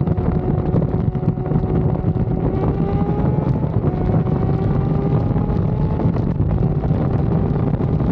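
Yamaha R6 inline-four sport bike engine pulling under way, its pitch climbing slowly and stepping down twice as it shifts up, with wind buffeting the microphone.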